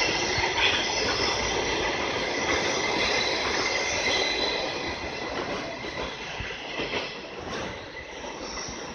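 Unpowered Keikyu railcars being towed through a station, their wheels rolling and clicking over the rails with a high wheel squeal. The sound fades over the last few seconds as the last car passes.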